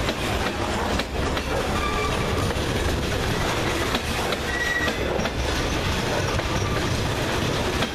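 Covered hopper cars of a grain freight train rolling past close by: a steady rumble of steel wheels on rail with clicks and knocks over the joints. Brief high wheel squeals come in about two seconds in and again about five seconds in.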